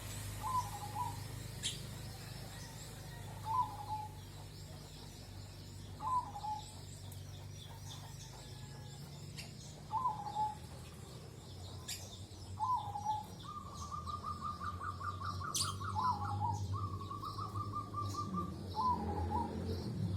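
Birds calling: a short hooked call repeated about every two to three seconds, with a fast trilled call running for several seconds in the middle. A steady low hum sits underneath.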